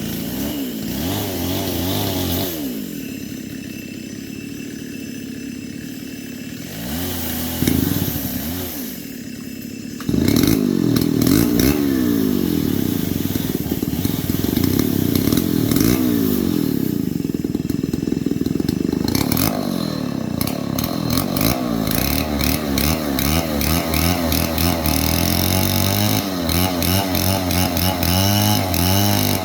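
Stihl 070 two-stroke chainsaw running, quieter and steadier for the first several seconds with a short blip of throttle. About ten seconds in it is opened up sharply to high revs and stays there, its pitch rising and falling.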